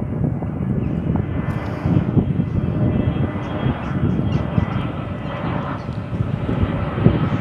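Jet airliner engines: a steady low rumble with a faint whine, which grows a little stronger about a second in.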